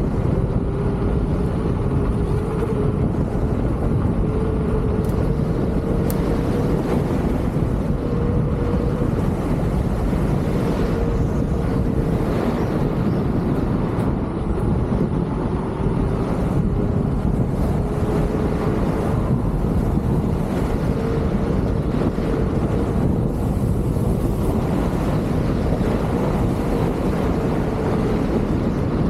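Wind rushing over the microphone of a rider on a Leaperkim Lynx electric unicycle, with the hub motor's whine slowly rising and falling in pitch as the speed changes.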